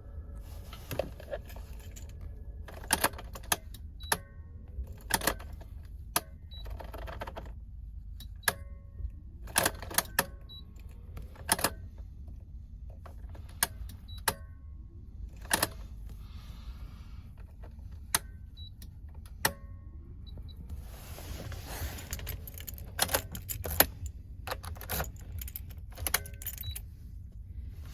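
Car keys jangling and clicking as the ignition key of a Mitsubishi Legnum is turned over and over, a sharp click every second or two and a busier flurry of clicks near the end. No engine starts: the car has a no-start, no-dash fault.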